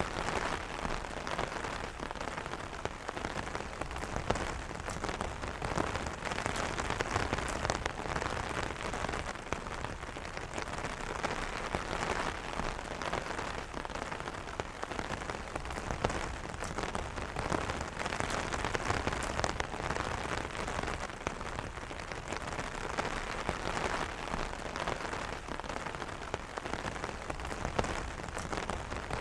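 Steady light rain pattering on an umbrella canopy, a dense even patter of many small drop hits with no thunder.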